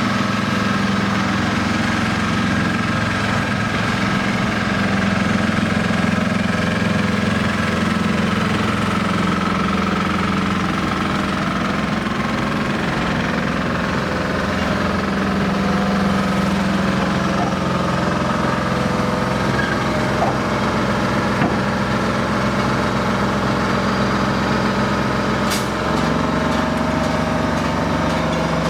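An engine idling steadily, its low hum shifting slightly in pitch near the end, with a single sharp click shortly before.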